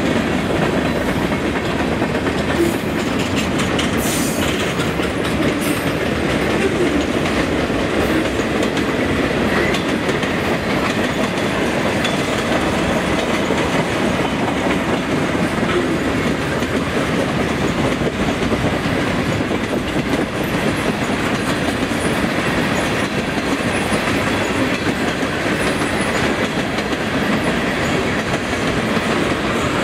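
A mixed freight train of covered hoppers, a boxcar and tank cars rolling past close by: a steady, loud rumble and clatter of steel wheels on the rails.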